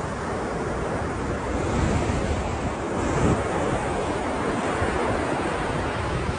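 Ocean surf washing continuously, with slight swells in loudness and a low rumble of wind on the microphone.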